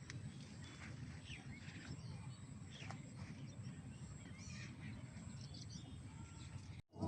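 Outdoor rural ambience: scattered short bird chirps and calls over a steady low rumble. The sound cuts out abruptly near the end.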